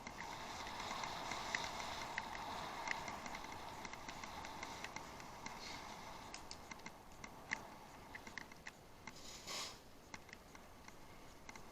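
Bicycle riding off-road: a steady tyre hiss that fades after about six seconds, leaving scattered ticks and clicks from the bike, with a short hiss about nine and a half seconds in.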